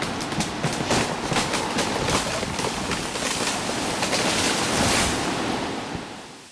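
Strong gusting wind through big trees, with a dense run of crackling and snapping through the first five seconds that fades out near the end.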